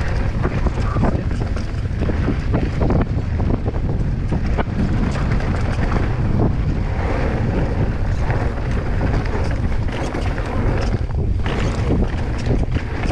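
Wind buffeting the microphone of a mountain bike rider descending a rocky alpine trail, over a steady low rumble, with frequent short clatters and knocks from the bike jolting over rough ground.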